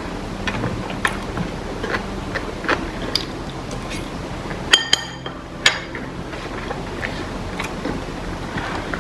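Eating sounds: scattered small clicks and taps of chewing and utensils over a steady low hum, with one brief ringing clink about five seconds in.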